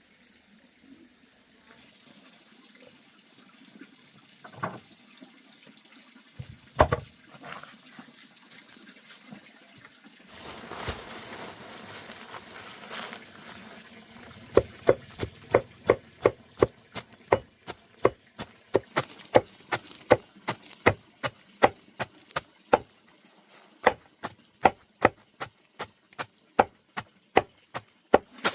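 Repeated chopping strikes, about two to three a second, starting about halfway through with a brief pause near the end, after a few scattered knocks and a short rush like splashing water.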